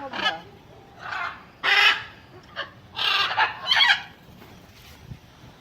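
Macaws squawking: a series of about six harsh, raspy calls in the first four seconds, the loudest just before two seconds in.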